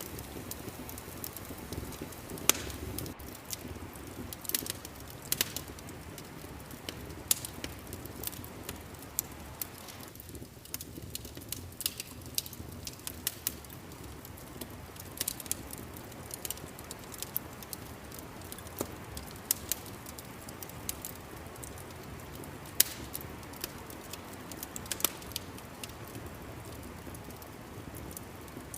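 Wood fire crackling and popping over a soft steady rumble, with sharp snaps at irregular intervals.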